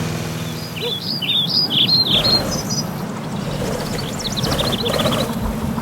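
Small birds chirping in two quick twittering bouts over a steady outdoor background, while a low engine hum fades out in the first second.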